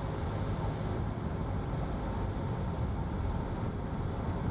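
Steady drone of a single-engine Cessna's piston engine and propeller, heard inside the cockpit on final approach.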